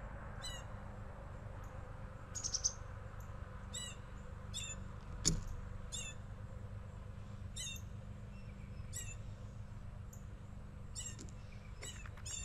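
Songbirds calling with short, sharp chirps, repeated roughly once a second. A single sharp click comes about five seconds in, over a steady low background rumble.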